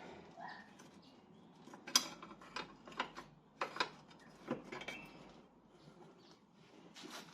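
Metal hand tools and parts clinking and clanking irregularly, a handful of sharp knocks a second or so apart, the strongest about two seconds in, during work on a car's rear suspension.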